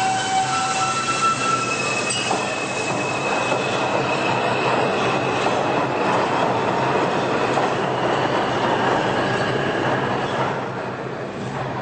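New York City subway train running on the rails, with steady running noise and high wheel squeals that change pitch over the first several seconds. The noise eases slightly near the end.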